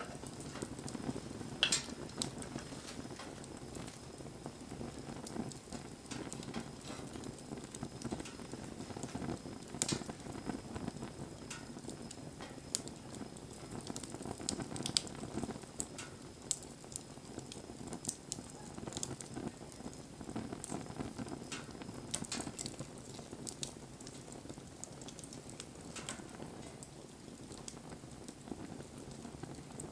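Wood fire crackling: a steady hiss with sharp pops scattered through it, the loudest about two seconds in and again near ten seconds.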